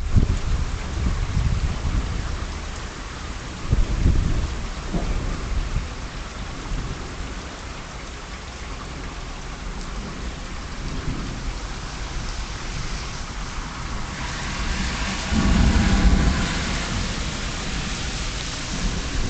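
Heavy rain falling steadily, growing louder about three-quarters of the way through, with low rumbles about four seconds in and again near the end.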